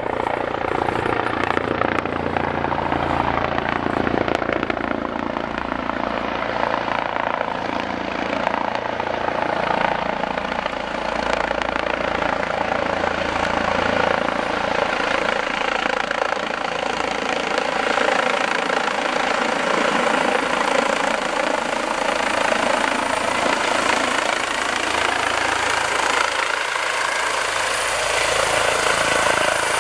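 Helicopter arriving: its engine and rotor make a steady, loud drone whose pitch slowly wavers as it approaches.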